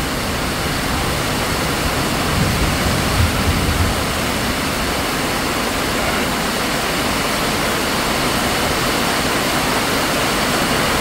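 Heavy rain pouring down, a steady, even rush.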